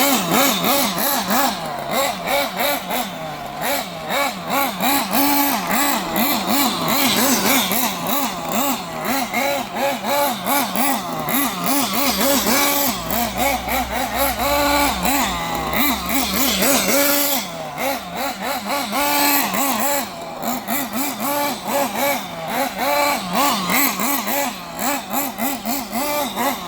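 Kyosho Neo 4.0 engine buggy's small glow-fuel engine running, its pitch rising and falling quickly and repeatedly as the throttle is worked.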